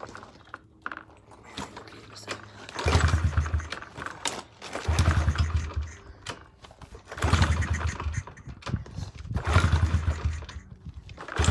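Honda 50 dirt bike's small four-stroke single-cylinder engine being kick-started: a series of roughly one-second bursts of cranking and firing about every two seconds, each dying away without the engine settling into a steady run.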